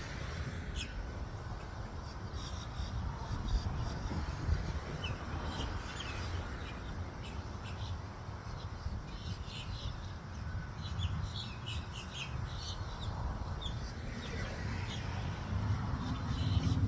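Small birds chirping, short calls over and over, above a steady low rumble of road traffic.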